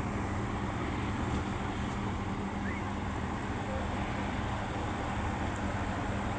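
Steady hum of an egg incubator's fan and motor, even throughout, with one faint short high chirp about two and a half seconds in.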